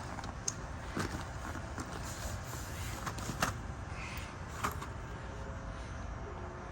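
Steady low rumble and hum of an underground rail station platform, with a few short clicks and knocks scattered through it.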